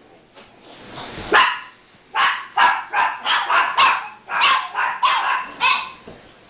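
Dogs barking: a single bark about a second in, then a quick run of about ten barks in close succession.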